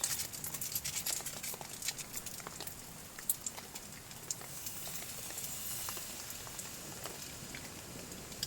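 Rain pattering, individual drops ticking sharply over a steady hiss, the ticks thickest in the first couple of seconds.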